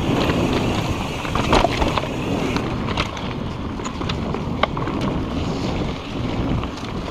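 Wind buffeting the microphone and tyre rumble from a mountain bike being ridden on a trail, with scattered sharp clicks and rattles from the bike.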